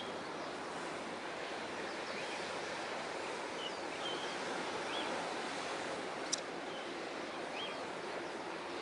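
Steady outdoor rushing noise at a harbour quayside, with a few short high chirps scattered through it and one sharp click a little after six seconds in.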